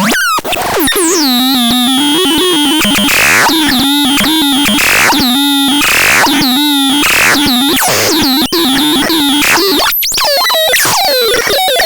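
Synthesizer playing a string of notes with a wavering, sweeping tone, some of them mixed with bursts of noise, and a few brief gaps.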